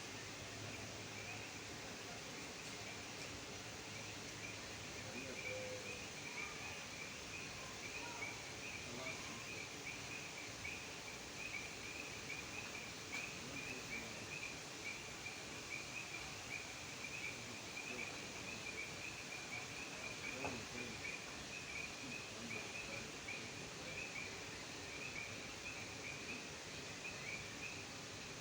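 A frog chorus: many frogs calling together in a faint, dense, pulsing chorus at one high pitch, over a steady outdoor hiss.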